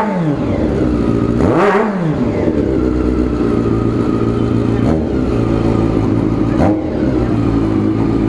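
Honda CB1 (NC27) 400 cc inline-four engine revving once, rising and falling about two seconds in, then running at a steady low speed with a couple of short throttle blips.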